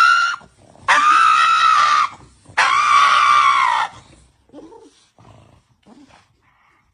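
An animal screaming: three long, high-pitched calls, each about a second long with short pauses between, followed by a few faint noises.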